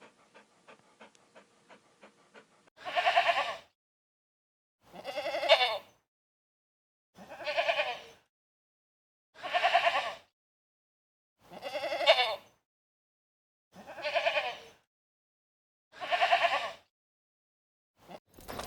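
An animal bleating over and over: seven high, quavering bleats, each just under a second long and about two seconds apart. Faint rhythmic panting comes before the first bleat.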